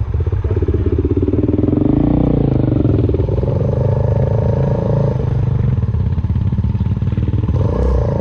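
Suzuki Van Van 125's single-cylinder engine running on the move through an aftermarket full exhaust, its pitch shifting about two seconds in and then holding steady.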